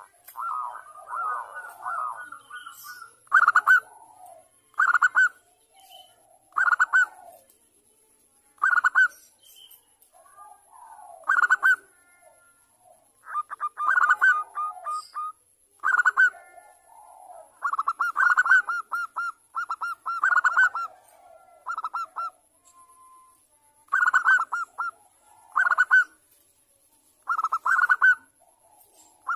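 Bangkok-type zebra dove (perkutut) cooing: short phrases of rapid staccato notes, repeated every second or two.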